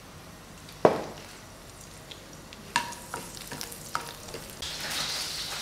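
A spatula knocking and scraping in a nonstick kadhai while curry leaves and green chillies are stirred in hot oil: a sharp knock about a second in, a few lighter taps, then the leaves sizzling in the oil from a little before the end.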